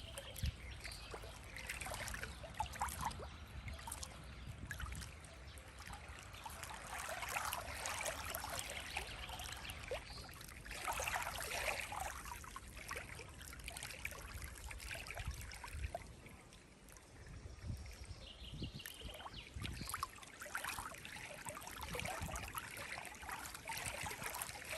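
Small waves lapping and rippling water, swelling and easing in slow surges, with a quieter stretch past the middle.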